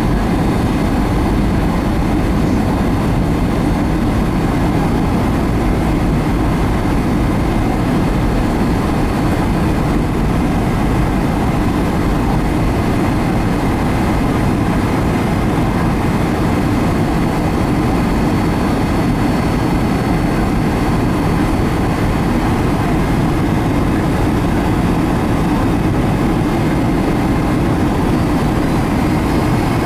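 Steady rumbling roar of a Boeing 757-200 in flight, with a faint jet-engine whine above it, as heard in the cabin on the approach. Near the end the whine rises slightly in pitch as the engine power changes.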